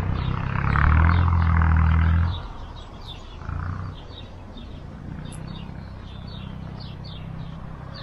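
Small birds chirping repeatedly in quick short notes, over a loud low rumble that stops a little over two seconds in.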